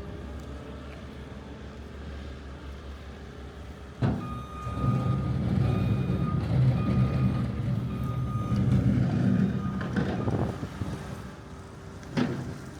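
A truck's engine running with its reversing alarm sounding a steady series of beeps for several seconds. A sharp knock marks the start of the beeping, and another comes near the end.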